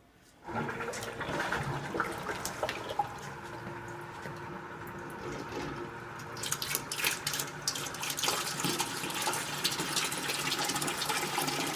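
A small pump switches on about half a second in, and water runs and splashes steadily as vinegar solution is pumped through a tankless water heater and pours from the return hose back into the bucket, descaling the heat exchanger. The splashing gets busier from about six seconds in.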